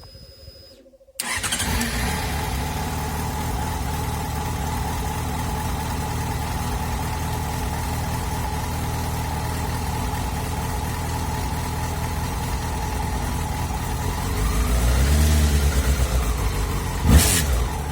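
Yamaha FZ6 motorcycle's inline-four engine starting up about a second in and then idling steadily on fresh oil. The revs rise briefly near the end, followed by a single sharp click.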